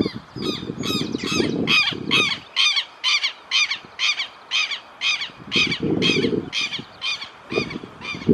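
Chalk-browed mockingbirds giving harsh, repeated scolding calls, about two a second, as they mob a tegu lizard. A low rustling noise runs under the calls for the first two seconds and again around six seconds in.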